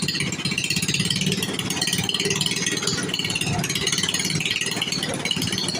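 A 1952 Briggs & Stratton Model 6 single-cylinder engine idling steadily on its own with a fast, even firing pulse. It is holding its idle unaided, with no carburetor adjustment.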